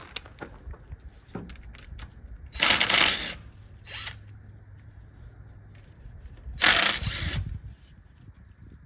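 Ratchet wrench with a 12 mm socket clicking in two short bursts, about 3 and 7 seconds in, while bracket bolts are worked loose, with small metal tool clinks between.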